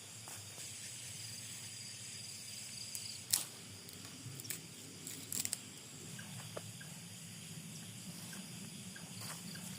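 Insects chirping steadily at a high pitch over a low outdoor rumble, with a few short sharp clicks or snaps, the loudest about three and a half seconds in and another few about five seconds in.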